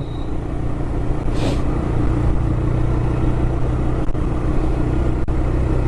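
TVS Raider 125's single-cylinder engine running at a steady pace under way, with a brief hiss about a second and a half in.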